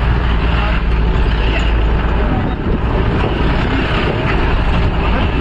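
A moving vehicle's engine and road noise, heard on board as a loud, steady rumble.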